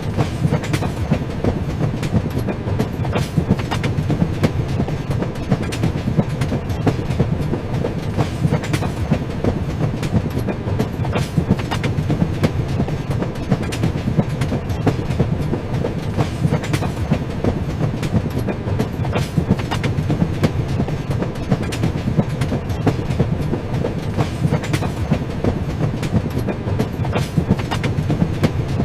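Train running along the track: a steady low rumble with a continual clickety-clack of the wheels passing over rail joints.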